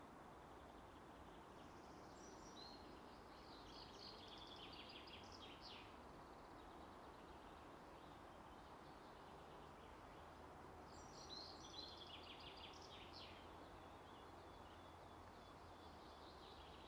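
Near silence: faint outdoor ambience, with a bird singing in two spells of quick high chirps, one early and one about two-thirds of the way in.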